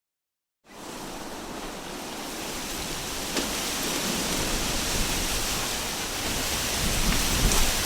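Wind sound effect: after a brief moment of silence, a steady rushing hiss of wind comes in, with a low rumble of gusts swelling near the end.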